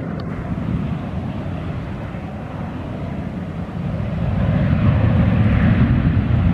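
Airliner engine noise, a steady rumble and rushing hiss that grows louder about four seconds in as the aircraft comes nearer.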